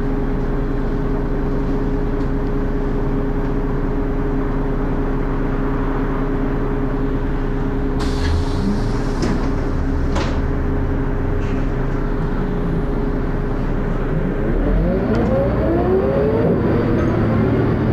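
Dennis Arrow double-decker bus engine running steadily at a constant pitch, then revving up about fifteen seconds in, with several rising pitches as the bus pulls away.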